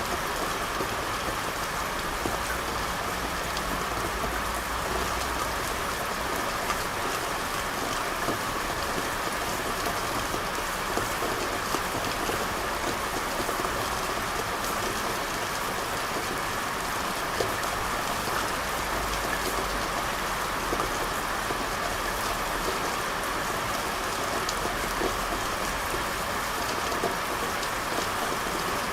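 Steady rain falling on street surfaces, an even hiss with many small scattered drop ticks.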